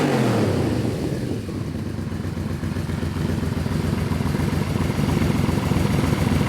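1993 Yamaha V-Max's V4 engine falling back from a rev in the first second, then idling steadily with an even, pulsing beat.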